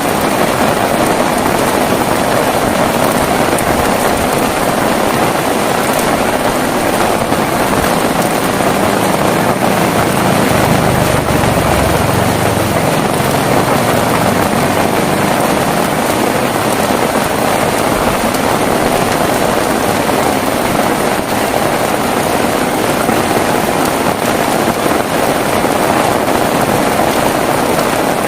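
Heavy rain falling steadily as a dense, even hiss, with a low rumble for a few seconds around the middle.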